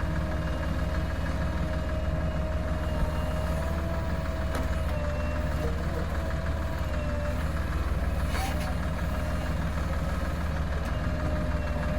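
JCB 3DX backhoe loader's diesel engine running steadily, with a steady, slightly wavering whine over the low drone. There is a brief burst of noise about eight seconds in.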